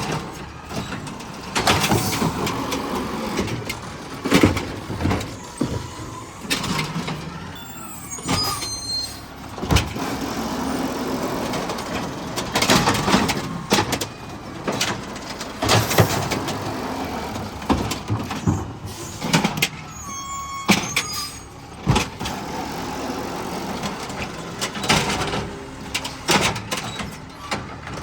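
Garbage truck running, with repeated knocks and bangs throughout and a short whine twice.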